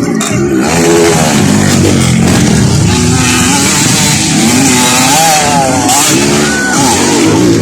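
Dirt bike engines revving, their pitch rising and falling continuously with more than one engine note overlapping.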